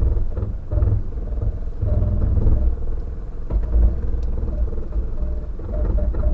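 4x4 vehicle driving a rough off-road track: a low, uneven rumble of engine and tyres, with a sharp knock about halfway through.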